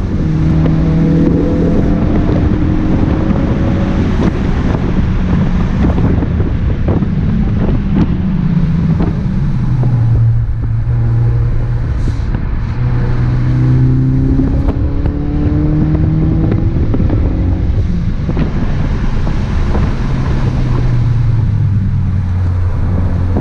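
2017 Ford Focus RS's turbocharged 2.3-litre four-cylinder engine under hard driving, heard from inside the car: the engine note climbs in pitch, drops about ten seconds in, climbs again, then settles lower near the end. A constant rush of tyre and wind noise runs underneath.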